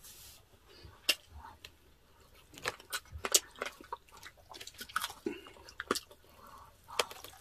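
Close-up eating sounds of roast pork and chicken eaten by hand: chewing and biting, with many short, irregular crunchy clicks.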